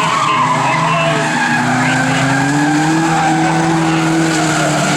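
Several banger race cars running hard around an oval track, their engines overlapping, with one engine note rising gradually as that car accelerates.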